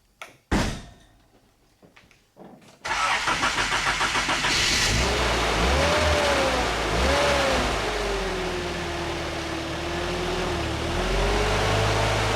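A thump about half a second in. Then, about three seconds in, the Nissan 4x4 truck's engine cranks briefly and starts, blips up twice and settles into a steady run.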